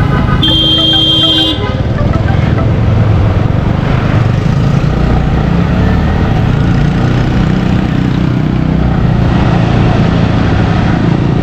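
Yamaha R15 V3 motorcycle running at road speed, a steady low rumble of engine and rushing air. A vehicle horn honks once, about half a second in, and lasts about a second.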